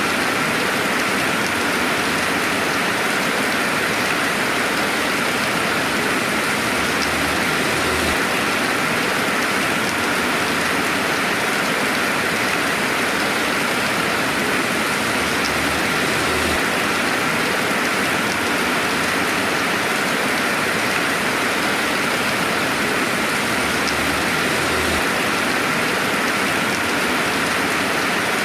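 Steady, even rainfall ambience with no thunder: a constant hiss of rain, with a faint low rumble that comes and goes every several seconds.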